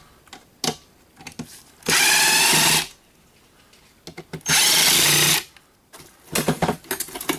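Power drill running in two bursts of about a second each, driving out fasteners while a coffee grinder is dismantled, with scattered clicks of handling around them.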